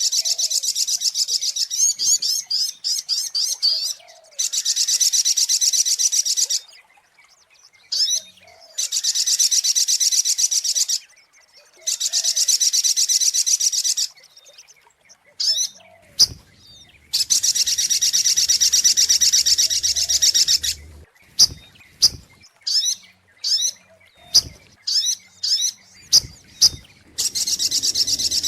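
Sogok ontong (spiderhunter) calling: long, fast, high trills of two to three seconds each, repeated with short pauses, broken up by runs of sharp single notes.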